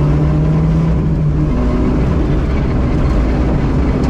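Rally car's engine running steadily at an even pitch, heard from inside the cabin, over a low rumble of the car travelling on a gravel road.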